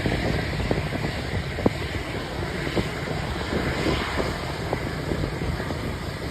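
Steady jet noise from an Airbus A320's CFM56 engines heard at a distance, with wind buffeting the microphone and a few faint clicks.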